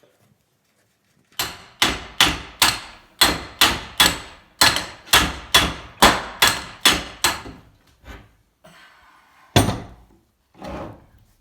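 Hammer blows on a rusty, seized steel bench vise: a run of about fifteen sharp strikes, two to three a second, then a pause and one more blow.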